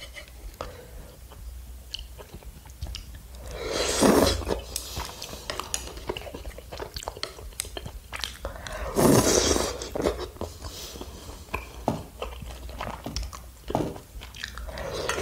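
Close-miked chewing of tteokbokki rice cakes in sauce: many small, wet mouth clicks, with two louder, longer noises about four and nine seconds in.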